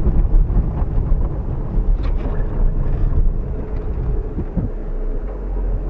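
Fiat Uno Mille's 1.0-litre four-cylinder engine running under load, heard from inside the car as a steady low rumble, while the car is spun round in a handbrake turn on wet ground.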